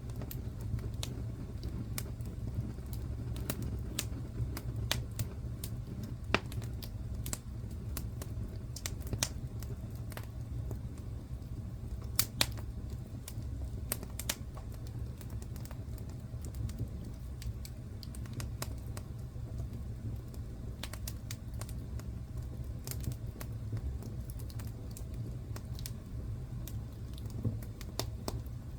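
Wood fire crackling in a fireplace: irregular sharp pops and snaps over a steady low rumble, with two of the loudest pops about 12 seconds in.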